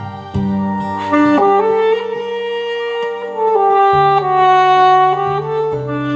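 Alto saxophone playing a slow melody in long held notes, moving from note to note every second or so.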